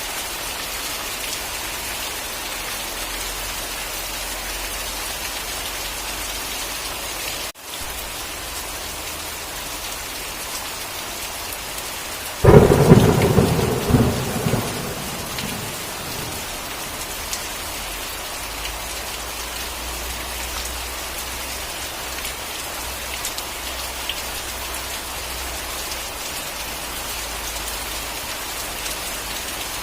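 Steady rain, with one sudden thunderclap about twelve seconds in that crackles and rumbles away over about three seconds.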